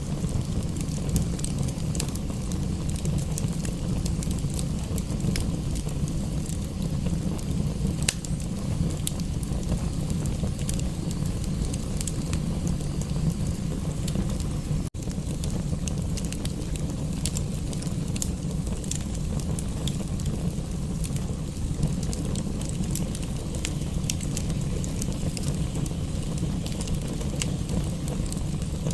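Fireplace crackling, with frequent sharp pops and snaps over a steady low rumble; the sound cuts out for an instant about halfway through.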